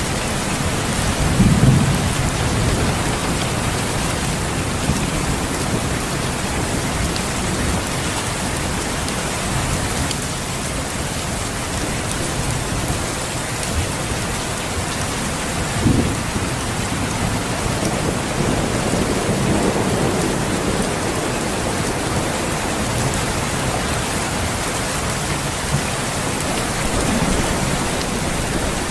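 Steady heavy rain hissing, with low rolls of thunder: the strongest comes about a second and a half in, another near two-thirds of the way through, and there is a short low thud about midway.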